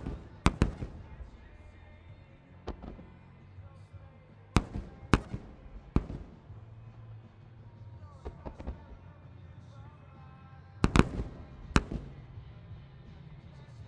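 Aerial firework shells bursting in a starmine display, about ten sharp bangs in irregular clusters, each with a short echo. Music plays underneath.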